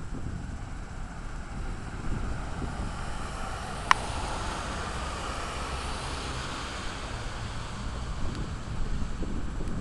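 Wind buffeting the microphone outdoors, a fluctuating low rumble, with a softer hiss that swells and fades in the middle and a single brief sharp click about four seconds in.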